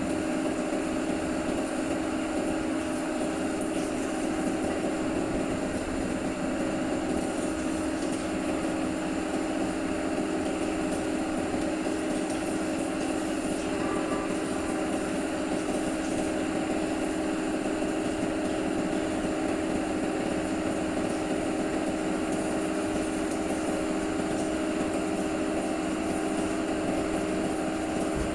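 A motor running steadily with a constant hum that does not change in pitch or level.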